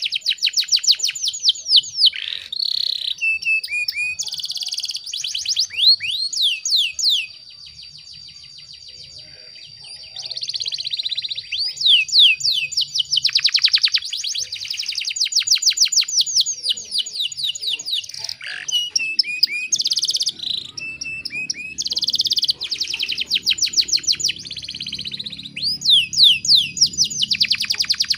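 Domestic canary singing: long runs of fast trills made of sweeping high notes, mixed with held whistles. The song drops to a brief lull about seven seconds in, then resumes.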